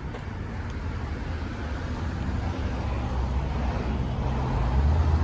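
Steady road noise of a moving car: a low rumble of engine and tyres.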